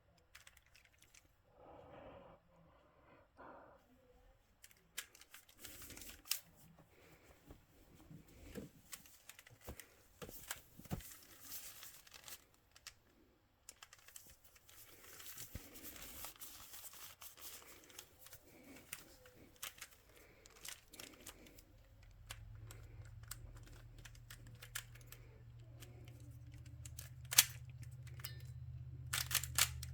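Plastic twisty puzzle being turned by hand: irregular clicking and rustling of its layers. A low steady hum comes in about two-thirds of the way through.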